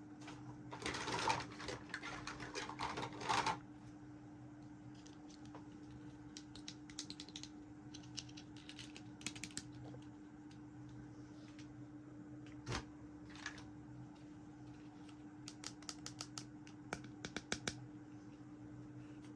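Small hard plastic toy pieces clicking and tapping as they are handled. About a second in there is a dense two-second run of rustling clicks, then scattered light clicks. A steady low hum runs underneath.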